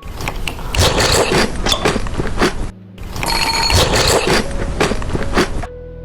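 Close-miked crunching and chewing of chocolate, a dense run of crackles and scrapes with a short pause midway. It stops shortly before the end, when soft background music with steady held notes comes in.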